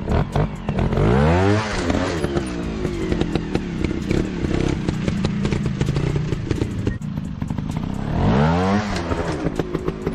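Motorcycle engine revving up and back down twice, about a second in and again near the end, with the engine running in between and a lot of clattering clicks.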